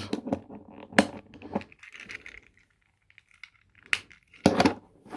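Plastic Transformers toy being handled and transformed: sharp clicks and snaps of plastic parts being folded and tucked into place, with light rubbing and rattling between them.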